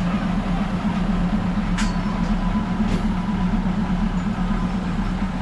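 Diesel railcar's engine running with a steady low drone as the train moves slowly along the tracks. Two sharp clicks come about two and three seconds in.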